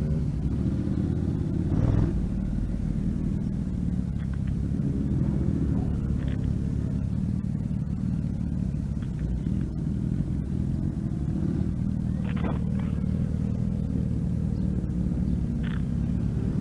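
Motorcycle engine running at low road speed, a steady low rumble.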